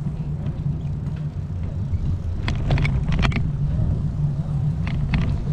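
Steady low rumble of riding a bicycle, with wind on the microphone and tyre noise on the road. A few sharp clicks or rattles come about two and a half seconds in and again near the end.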